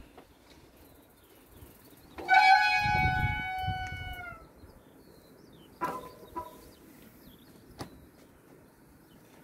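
Disc brake squealing: a loud, high squeal with several overtones starts about two seconds in, holds for about two seconds and sags slightly in pitch as it fades, followed later by two short squeaks. This is the brake squeal the disc brake suffers from.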